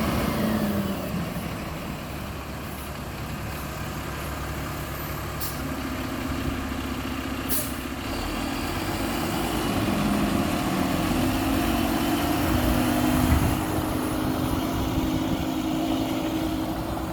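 Mack LR garbage truck's engine running, its pitch rising and falling, with two short hisses of air a couple of seconds apart about a third of the way in.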